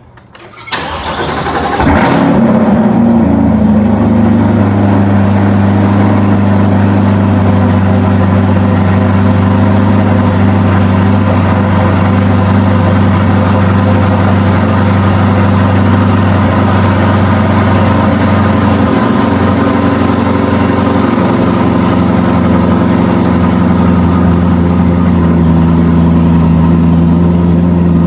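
Chevrolet C8 Corvette V8 starting up, catching with a short loud flare about a second in, then idling steadily and loud. Around two-thirds of the way through the idle settles a little lower.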